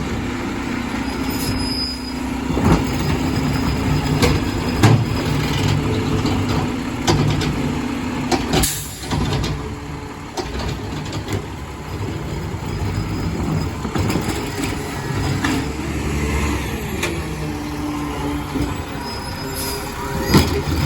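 Diesel garbage truck running close by, with scattered knocks and clanks. About eight and a half seconds in comes a short, loud hiss of air, typical of the truck's air brakes releasing.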